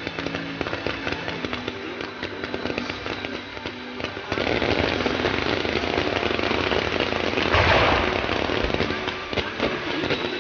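Fireworks going off: a dense crackle of many small sharp pops, then about four seconds in a louder, denser barrage takes over, with its loudest burst near eight seconds.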